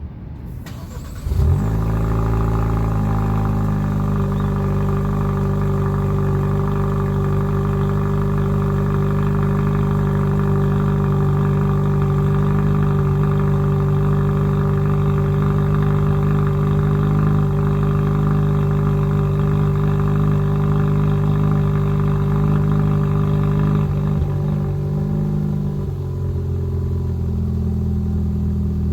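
2021 Kia Forte GT's 1.6-litre turbocharged four-cylinder cold-starting through its factory exhaust: a short crank, then it catches a little over a second in with a quick flare in revs. It settles into a steady, fast cold idle, which drops to a lower, slightly quieter idle about 26 seconds in.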